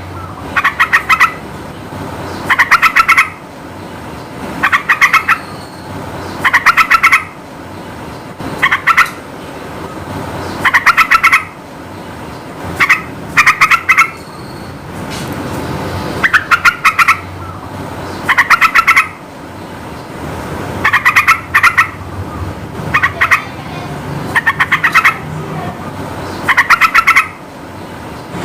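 Yellow-vented bulbul (trucukan) singing: short bursts of rapid bubbling notes, repeated about every two seconds, over a steady low background rumble.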